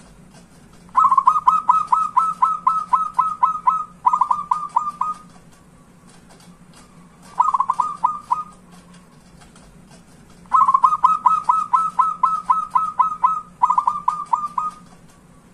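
Zebra dove (perkutut) singing: phrases of quick, clipped cooing notes, about four a second. The phrases run one to three seconds with short pauses between, the longest about a second in and again near the end.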